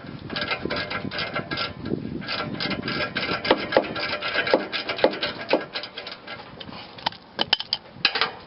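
Wrench turning a rusted exhaust bolt out of the old muffler: a rapid run of metallic clicks and scraping, with a few sharper clicks in the middle, thinning out near the end as the bolt comes free.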